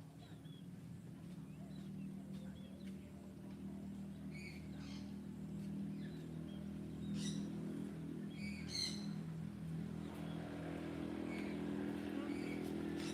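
A motor vehicle's engine drawing nearer, its steady hum growing louder, with short bird chirps over it a few times.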